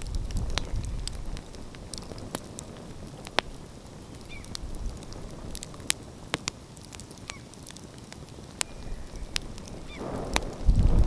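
Wood fire crackling with many sharp pops, under a few faint short bird calls. A low rumble swells near the end.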